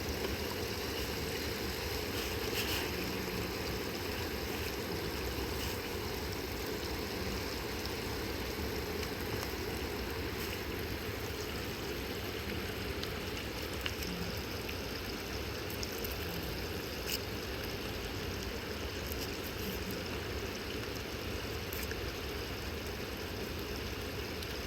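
River water rushing steadily, an even unbroken wash, with a few faint clicks over it.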